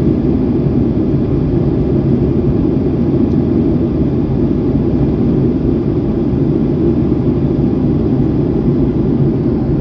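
Steady low rumble of a Boeing 737-800's jet engines and airflow, heard from inside the passenger cabin.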